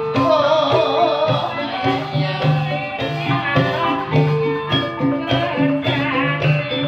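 Live ebeg dangdut kreasi music: an ensemble of drums and pitched percussion plays a steady beat under a repeating melody. A wavering high melodic line stands out during the first second or so.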